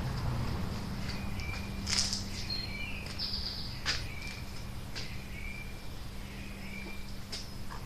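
Birds chirping: short high chirps repeating about once a second, over a steady low hum, with a few sharp clicks.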